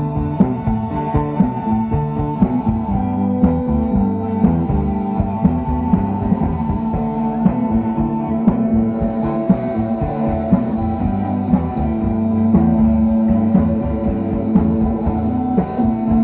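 Rock band playing an instrumental passage: guitars and bass over a drum kit keeping a steady beat, with no singing.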